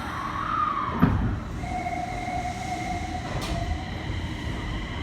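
Inside a Nagoya subway N1000-series car, the train is running with the whine of its Mitsubishi IGBT VVVF inverter traction motors: a steady tone held for about two seconds over the rumble of wheels on rail. A sharp knock comes about a second in.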